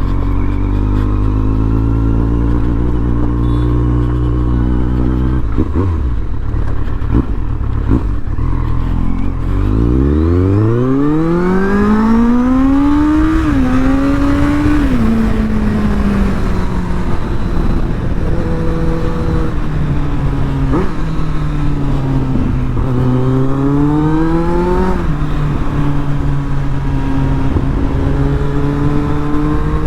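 Kawasaki Z800's inline-four engine through an Arrow titanium exhaust: running low and steady, then about ten seconds in revving up hard with a rising pitch and quick drops at gear changes, easing off, picking up again briefly, and settling to a steady run.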